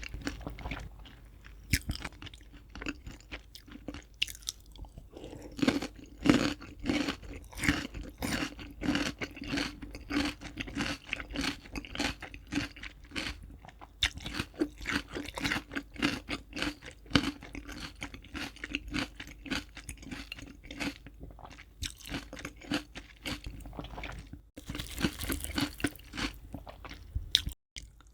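Close-miked chewing of crispy fried chicken: a dense run of crunches from the fried coating, several a second.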